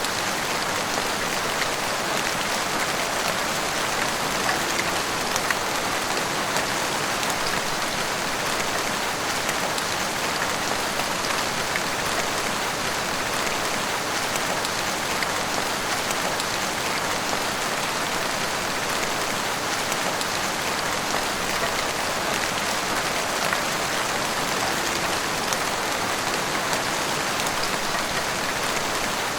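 Heavy rain falling steadily, pattering on roofs and pavement with dense drop spatter.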